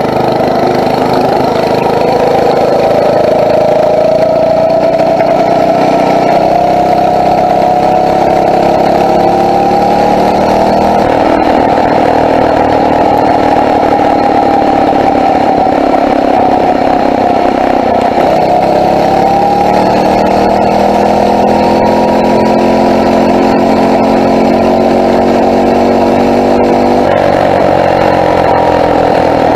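Phatmoto four-stroke bicycle engine running under way, its pitch climbing and falling as the rider opens and eases the throttle, with a drop in revs near the end.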